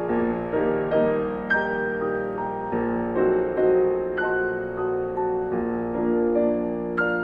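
Background music: a soft piano playing a slow melody over sustained chords, notes struck and left to ring.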